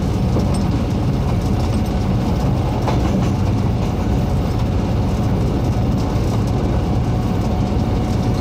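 Special train hauled by the CT273 steam locomotive and the R123 diesel-electric locomotive, running along the track: a steady low rumble.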